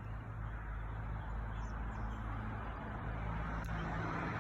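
A motor vehicle's engine running with a steady low hum, slowly growing louder, with a single sharp click about three and a half seconds in.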